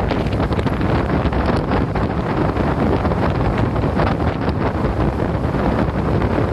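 Wind buffeting the microphone aboard a small fishing boat running at speed, a steady loud rush with the boat's running noise beneath it.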